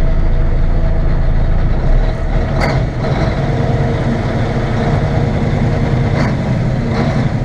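Engine of a 1960 Mack B61 dump truck running in first gear, a steady low rumble that changes note about two seconds in. Two brief sharp sounds stand out, about two and a half and six seconds in.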